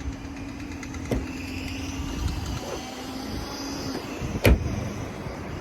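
A steady mechanical hum, with a faint click about a second in and a single sharp knock near the end.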